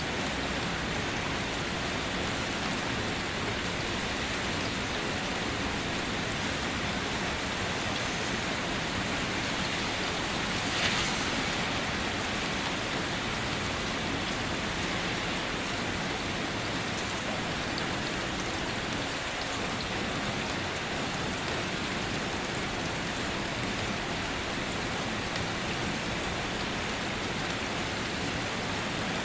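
Steady night rain falling, with scattered drop ticks and a brief louder surge about eleven seconds in.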